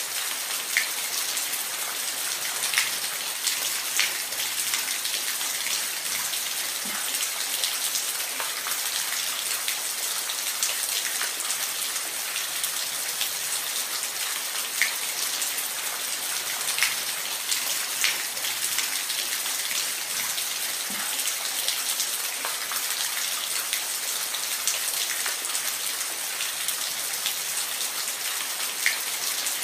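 Steady rain falling, an even hiss with the sharper taps of single drops scattered through it.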